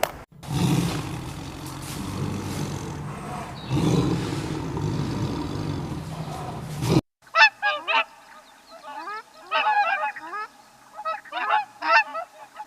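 A steady low rumbling noise for about seven seconds, which cuts off suddenly. Then comes a quick series of short, rising honking bird calls in bursts.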